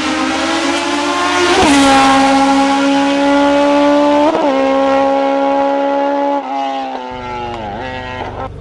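Hill climb race car engine at high revs, pulling hard with two quick upshifts where the pitch drops and climbs again. Further pitch drops follow as the sound fades away.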